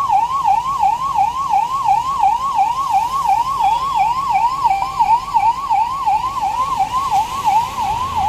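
Electronic emergency siren sounding a fast, steady warble, its pitch sweeping up and dropping back about three times a second.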